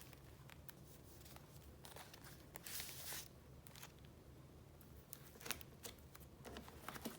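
Paper being handled quietly: scattered soft ticks and taps, with a short rustle of paper about three seconds in.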